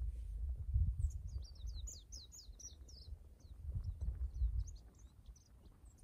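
A bird singing a quick run of high, downward-sweeping chirps, loudest from about one to three seconds in, then fainter, over a low rumble that swells twice.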